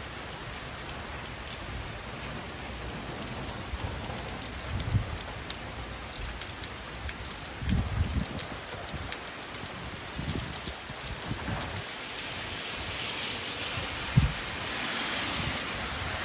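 Steady rain hissing down from a hurricane off the coast, with a few dull low thumps scattered through it. The rain swells louder for a few seconds near the end.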